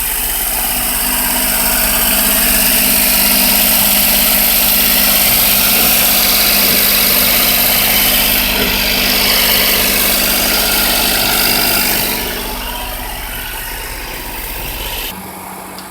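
1995 Daihatsu Hijet mini-truck's small three-cylinder engine idling steadily, heard close to the open engine. About twelve seconds in, it gets quieter.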